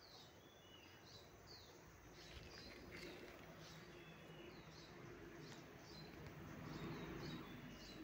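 Small birds calling in the trees, short high chirps that slide down in pitch, repeated all through. A faint low drone swells in the second half and eases off near the end.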